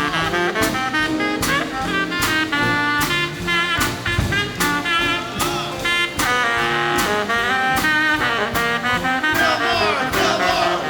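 Live big band playing a swinging jazz instrumental passage: saxophones and brass playing section figures over drums keeping a steady beat.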